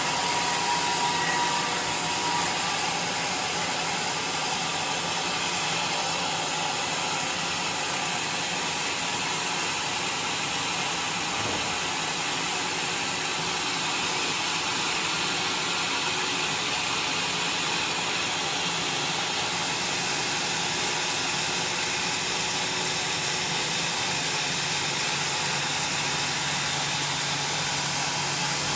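Sawmill machinery running steadily, a continuous loud mechanical noise with a strong high hiss and no breaks.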